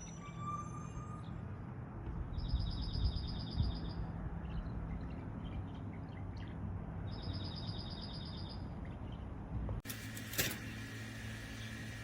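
A songbird singing two fast trills of rapid, evenly repeated high notes, each about two seconds long, over a low steady hum. About ten seconds in, the background changes abruptly to a different steady hum, and a single sharp click follows.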